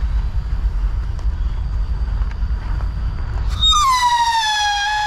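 Steady low rumble, then about three and a half seconds in a firework rocket takes off with a loud whistling howl that starts a little higher and settles to a steady pitch: the wolf-howl whistle tail of a Winda Howling Commandos rocket.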